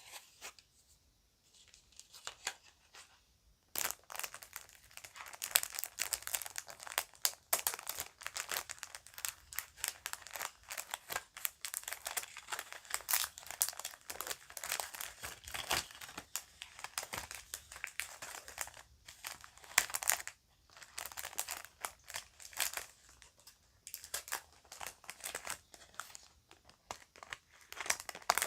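A bag crinkling and rustling as it is handled. The dense, fast crackles start about four seconds in and drop out briefly a couple of times.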